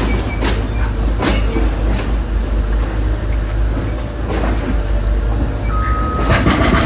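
Construction site noise: a steady low machinery rumble with scattered clanks and knocks, and a steady whine that sets in near the end.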